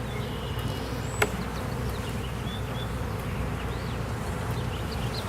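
Many honey bees buzzing in a steady drone around an opened hive, the colony agitated by the disturbance. A single sharp click about a second in.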